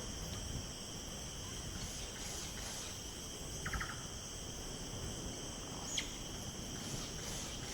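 Faint, steady chorus of insects, like crickets, with several high tones held throughout. A short, quick run of chirps comes a little past halfway, and a brief high call about six seconds in.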